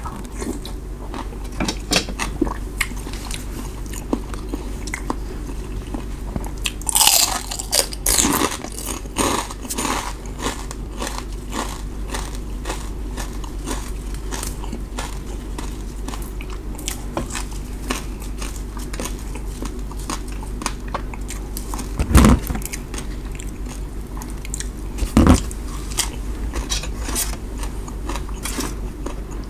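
A person chewing and biting a mouthful of stewed beef noodle soup, with many small wet mouth clicks and crunches. There are two louder knocks about two thirds of the way in.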